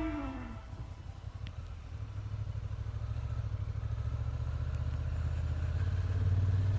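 Benelli Leoncino 500 parallel-twin motorcycle engine running with a steady low rumble that grows gradually louder, as a guitar note fades out in the first half second.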